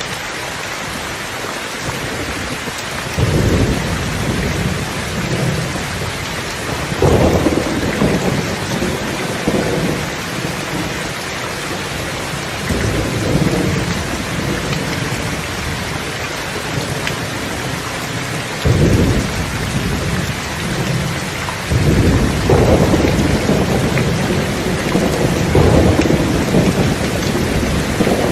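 Steady rain with a thunderstorm: a constant hiss of rain, over which rolls of thunder come and go, the first a few seconds in and several more, closer together, in the second half.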